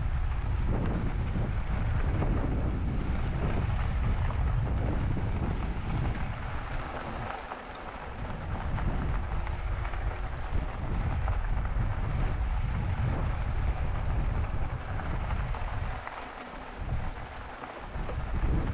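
Wind buffeting the microphone of a moving e-bike rider, a steady low rumble with a rushing hiss. It eases briefly about eight seconds in and again near the end.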